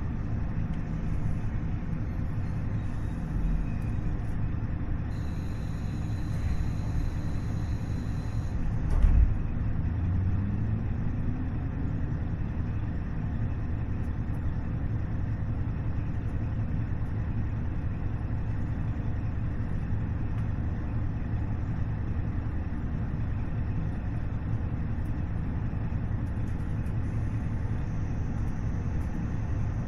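Running sound of a KiHa 40-series diesel railcar, heard aboard: its DMF15HSA six-cylinder diesel engine and wheels on the rails make a steady rumble. A thump comes about nine seconds in, and the engine note then rises for a couple of seconds.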